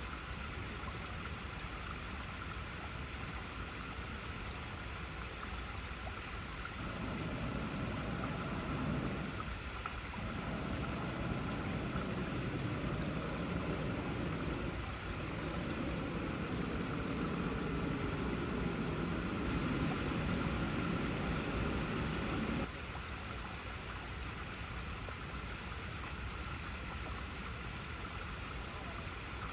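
Water flowing over icy rocks, a steady rushing hiss. About a quarter of the way in, a louder, deeper gushing joins it, briefly dipping twice, and it cuts off suddenly about three quarters of the way through.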